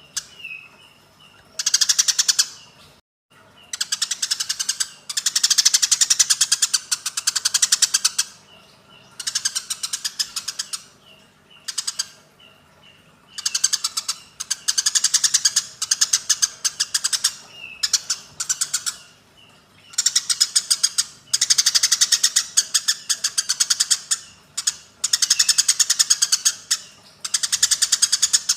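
Eurasian tree sparrows fighting: harsh, very rapid chattering in repeated bursts of one to a few seconds, separated by short pauses with faint thin chirps.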